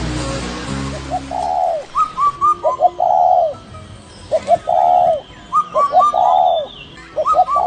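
A bird calling in repeated phrases, each a few quick short notes followed by one longer, rounded note, about four times over. Music plays under the first second or so.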